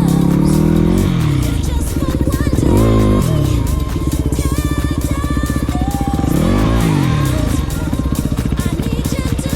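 Yamaha WR250F's single-cylinder four-stroke engine revving up and falling back three times, with background music playing over it.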